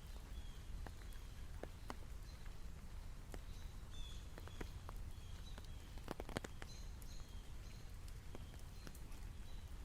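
Rain falling on a country road, heard as faint, irregular drops ticking one by one over a low steady rumble. Short high chirps come and go in the background.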